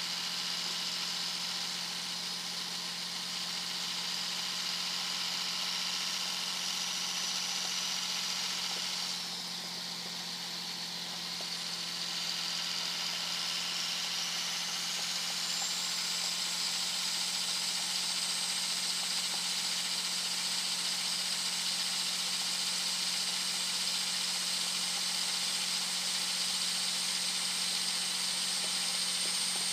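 Turbocharger whistle from a 2001 Dodge Ram 2500's Cummins 5.9-litre inline-six turbo diesel, cruising at highway speed over a steady engine drone. The high whistle drops in pitch and fades briefly about nine seconds in, then rises again a few seconds later to a higher pitch and holds steady.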